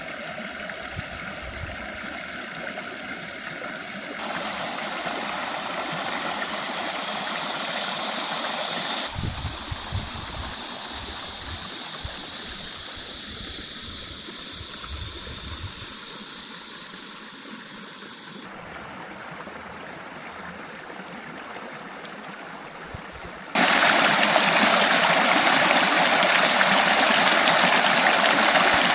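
Stream water rushing and gurgling, heard in several abruptly cut takes; it becomes much louder and fuller after a cut near the end.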